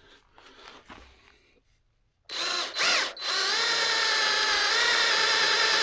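Kobalt 24-volt cordless drill running: a short burst of motor whine about two seconds in, a brief dip, then a steady whine for about two and a half seconds that cuts off suddenly.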